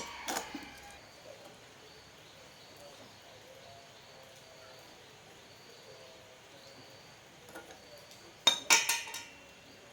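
Sharp clinks of hard objects striking, with a short ring after each: one at the start and a quick cluster of three or four about eight and a half seconds in.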